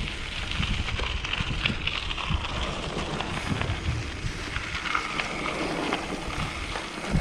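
Wind buffeting the microphone of a rider on a mountain bike, a gusty low rumble, over a steady higher hiss of the ride.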